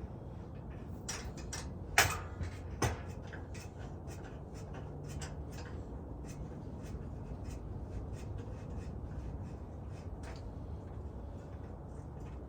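Scattered light clicks and rubbing sounds, with two sharper knocks about two seconds and three seconds in, over a steady low rumble.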